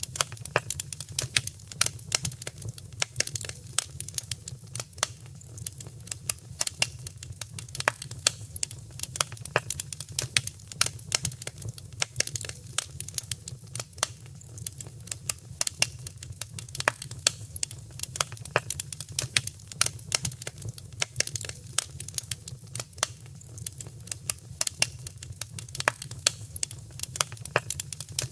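Wood fire crackling in a fireplace: a dense, irregular run of sharp pops and snaps over a steady low rumble of the burning fire.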